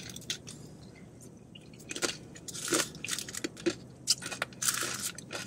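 Someone chewing a mouthful of crunchy, dry taco shell, with irregular crunches every second or so.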